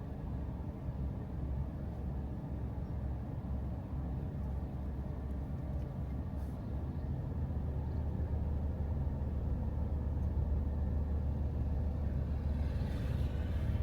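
A steady low vehicle rumble, with a faint hiss swelling near the end.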